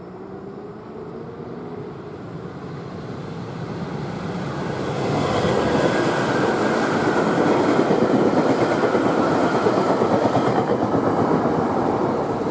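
Electric commuter train approaching, growing steadily louder over about five seconds, then running past close by with a loud, even rushing noise for several seconds.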